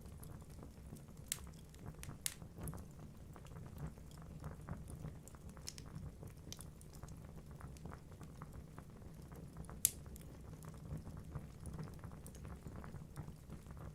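Wood fire crackling in a fireplace: a low steady rumble of burning logs, many small ticks, and a few sharp pops, the loudest about ten seconds in.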